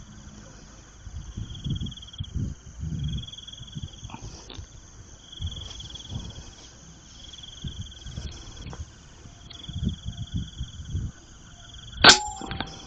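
Crickets chirping steadily with scattered low bumps, then near the end a single sharp crack of a shot from an FX M3 PCP air rifle.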